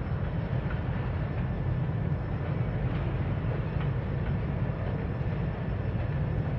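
Norfolk Southern freight train of covered hoppers and tank cars rolling across a steel truss bridge: a steady low rumble, with a few faint clicks.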